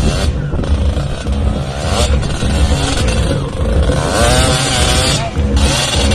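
Off-road racing engines running and revving, their pitch rising and falling over a heavy low rumble.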